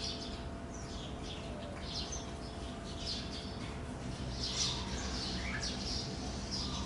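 Small birds chirping: many short, quick chirps repeating irregularly, over a steady low background hum.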